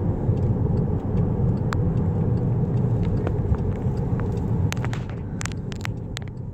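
Steady low rumble of a car driving slowly, engine and tyre noise heard from inside the cabin, with a few scattered light clicks in the second half. The rumble eases slightly near the end.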